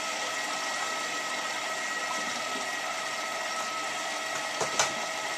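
Steady mechanical hum with one sharp click near the end, typical of the Hotpoint 9534A washing machine's relay clicking as it waits to start its fill.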